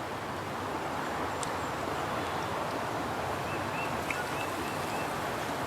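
Steady rushing outdoor noise of wind and water, with a quick run of about five faint, high bird chirps a little past the middle.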